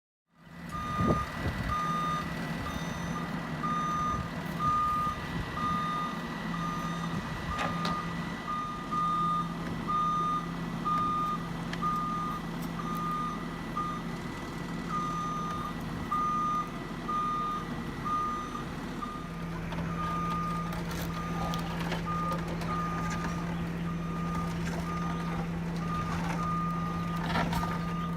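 A vehicle's reversing alarm beeps at a steady, even rate over the hum of its running engine, the sign of a vehicle backing up. The engine hum grows stronger about two-thirds of the way through, and a few sharp knocks sound, one about a second in.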